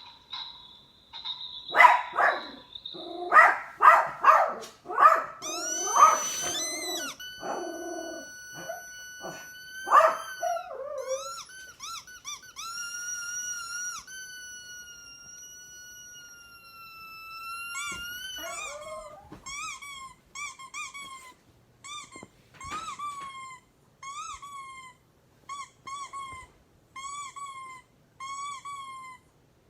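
Dog sounds: a short steady beep, then a run of loud yelps and barks, then long level whines, then a steady string of short squeaks about once a second.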